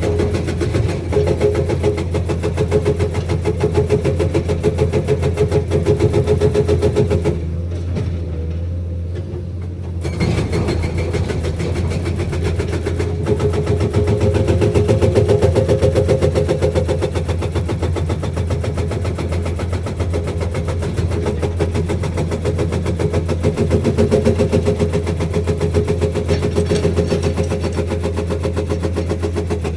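Hydraulic breaker on a Komatsu PC210 excavator hammering with rapid, steady blows over the diesel engine running under load. The hammering stops for about two seconds roughly a quarter of the way in, leaving the engine, then starts again.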